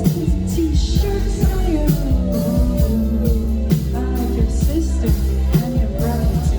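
Live electronic pop music over a PA: heavy bass, a steady beat and a singing voice gliding over it.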